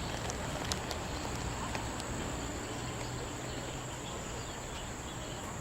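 Steady high-pitched insect chorus, with a low steady rumble beneath it and a few faint clicks.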